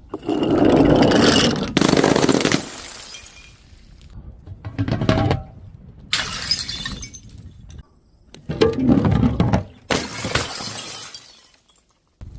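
Glass bottles and jars shattering, one after another: about six sudden crashes, several cut off abruptly.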